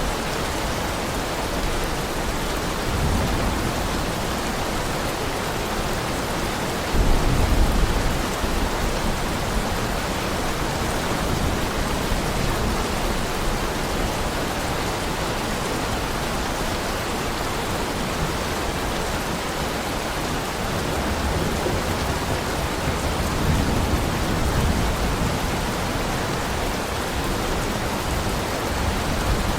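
Steady heavy rain with low rumbles of thunder; the loudest comes suddenly about seven seconds in and fades within a second or so, and a longer, softer rumble comes near the end.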